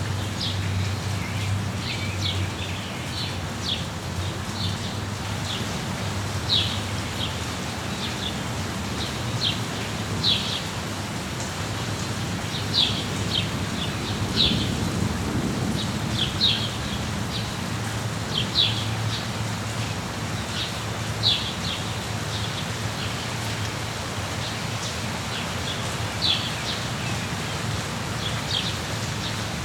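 Small birds chirping in short high notes, one every second or so, over steady falling rain. A low rumble swells about halfway through.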